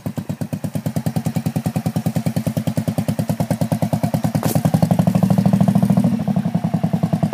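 Motorcycle engine running at low revs with an even pulse, turning louder for a second or so after a short click about two-thirds of the way through, then easing back, as the learner rider gives it more gas.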